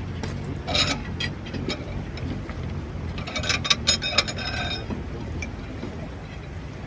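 Tractor engine running steadily low, with two spells of sharp metallic clinking and rattling, one about a second in and a longer, denser one around three to four seconds in.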